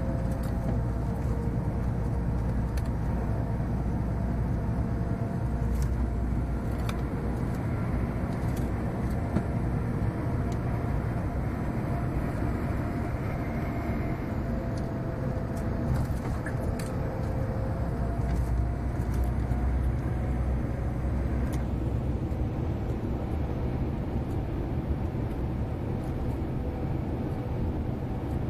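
Scania 143M 470 truck's 14-litre V8 diesel engine running steadily, its note drifting slowly up and down.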